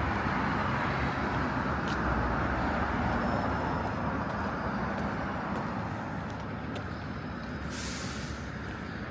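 Road traffic passing on a busy city street, a steady rush of engines and tyres that slowly fades, with a short hiss near the end.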